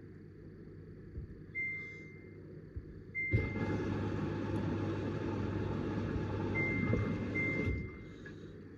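Samsung WW90J5456FX washing machine in test mode: control-panel beeps as buttons are pressed, and a unit inside the machine (water fill or pump) running for about four and a half seconds with a steady rushing noise and low hum, then cutting off suddenly.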